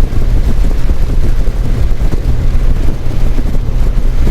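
Heavy wind buffeting the microphone over a steady low vehicle rumble, as heard while riding on the road.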